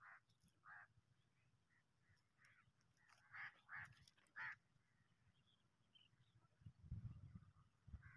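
Near silence with faint, short bird calls: two near the start and a quick run of them about three to four and a half seconds in. A low rumble comes near the end.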